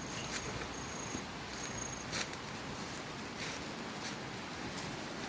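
Three short, high-pitched insect chirps in the first two seconds over a steady outdoor hiss, with a few faint clicks.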